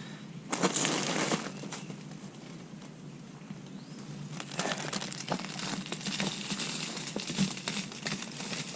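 Rustling and crinkling of mulch being handled and spread, in two spells: a short one about half a second in, and a longer one with scattered clicks from about four and a half seconds in.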